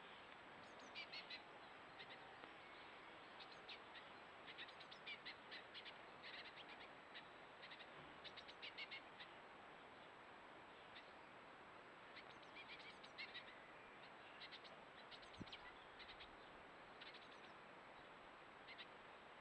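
Small garden birds chirping: faint, short calls in quick clusters, repeated throughout over a steady background hiss.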